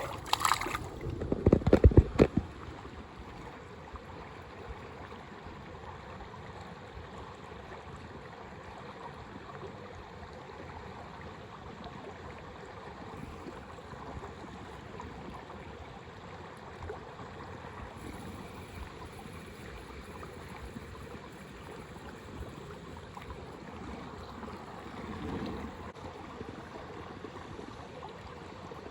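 Steady rush of a flowing mountain river. A few loud low thumps come in the first couple of seconds.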